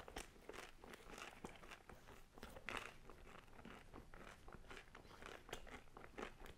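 Faint, irregular crunching and mouth clicks of a person chewing crispy thin-crust pizza with the mouth closed.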